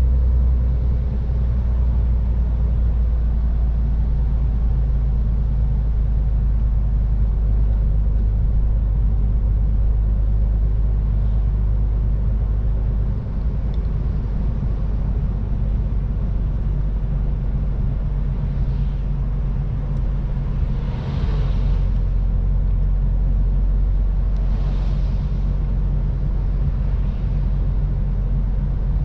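MAN TGX 18.510 truck's six-cylinder diesel engine running steadily with road and tyre noise, a constant low drone. Two brief swells of rushing noise come about two-thirds of the way in and again a few seconds later.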